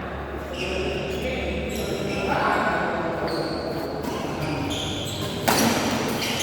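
Badminton play on an indoor court: short high squeaks of shoes on the floor, and one sharp racket strike on the shuttlecock about five and a half seconds in, over players' voices.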